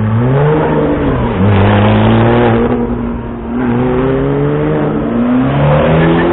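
Sports car engine accelerating hard, its pitch climbing and then dropping at a gear change about a second in. It eases off about three seconds in and pulls again, stepping up in pitch near the end.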